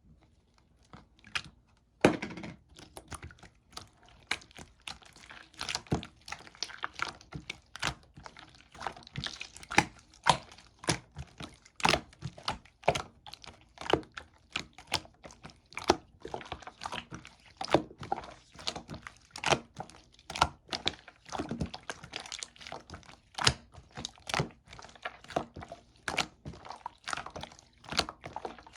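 Purple slime being squished and pressed by hand, giving a continuous run of sticky clicks and pops, several a second, the loudest about two seconds in.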